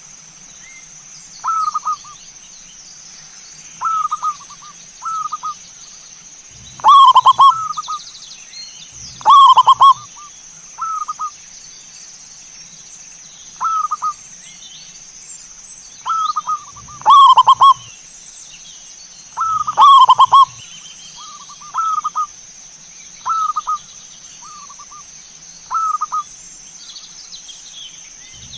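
Zebra dove (perkutut) cooing: short rolling coo phrases repeated every one to three seconds, a few loud full phrases among softer short ones, over a steady high hiss.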